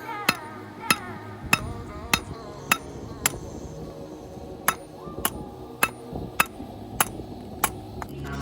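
Blacksmith's hammer striking steel on an anvil, about two ringing blows a second: six blows, a short pause, then six more.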